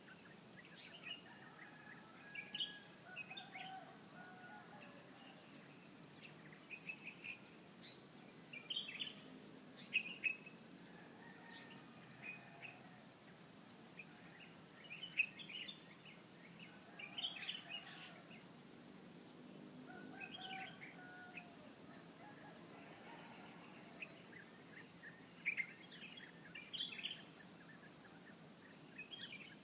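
Small birds chirping and calling in short, scattered phrases over a steady high-pitched drone.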